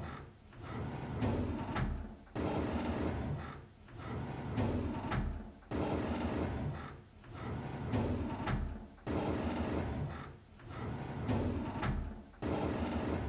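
A drawer sliding open again and again, about every three seconds: a rumbling slide that ends in a sudden stop.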